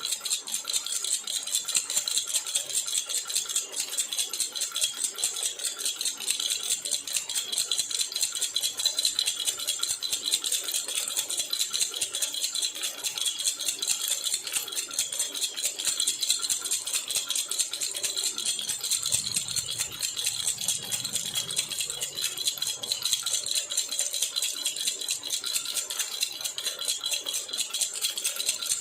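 Silver jhunjhuna, a metal baby rattle, shaken steadily: a fast, bright, continuous jingling without a break.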